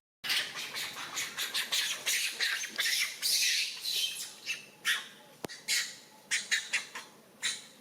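A young monkey screeching: a rapid run of short, shrill, rasping cries that thins out to separate cries about every half second.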